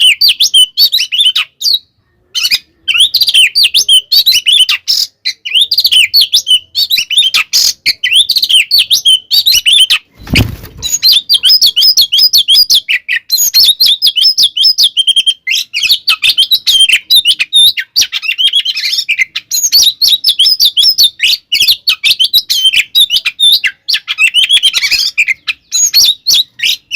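Oriental magpie-robin (kacer) singing an agitated, rapid fighting-style song: a dense, unbroken string of varied chirps and whistles. The song drops out briefly about two seconds in, and a dull thump comes around ten seconds in.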